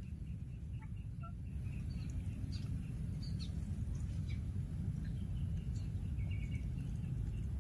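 Faint, short bird chirps scattered over a steady low rumble, with a small cluster of chirps near the end.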